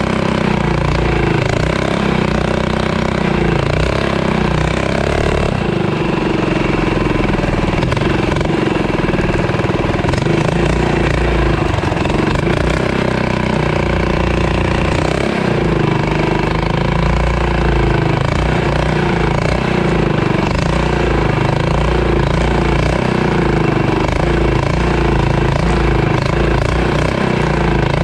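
Mini bike engine running under way, its note rising and falling as the throttle is worked.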